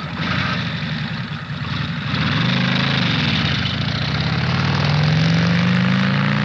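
Carbureted Chevrolet 350 V8 running; about two seconds in it gets louder and its pitch rises slowly as the revs climb, then holds.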